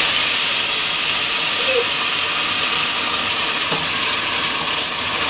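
Tomato sizzling loudly in hot red palm oil with shallots in a stainless steel pot: a steady frying hiss as it is stirred with a wooden spoon.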